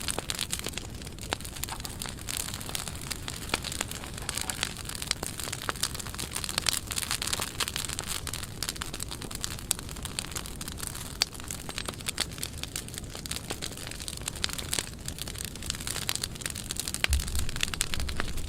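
A burn pile of dry pruned branches crackling and popping steadily in dense, irregular snaps over a hiss of flame. A couple of low thumps near the end.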